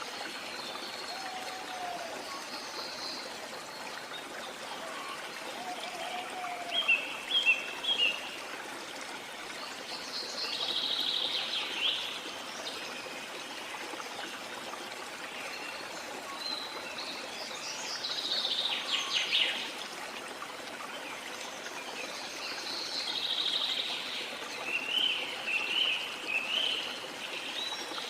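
Steady rush of running water with birds singing over it in several short bursts of chirping song. The loudest bursts come about seven seconds in and again around nineteen seconds.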